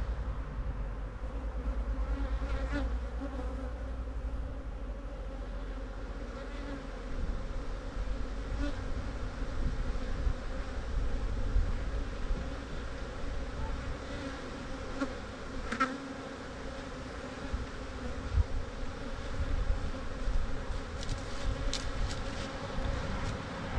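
Honeybees buzzing in a steady drone around an opened hive of a very defensive colony, with a few faint clicks scattered through.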